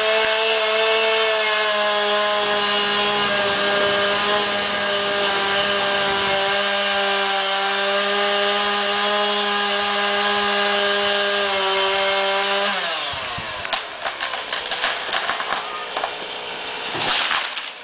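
Two-stroke chainsaw running at full throttle through a cedar trunk, holding a steady pitch, then the throttle is let off about 13 seconds in and the engine winds down. Irregular cracks and snaps follow, with a louder crash near the end as the tree gives way and comes down.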